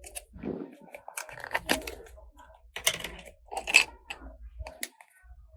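Small plastic toy pieces being handled and set down: a run of irregular clicks and taps with some packaging rustle and crinkle between them, the sharpest strikes about three and four seconds in.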